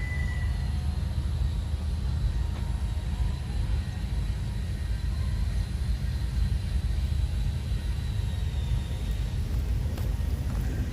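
Wind buffeting the microphone: a steady, gusting low rumble, with a faint steady high tone above it.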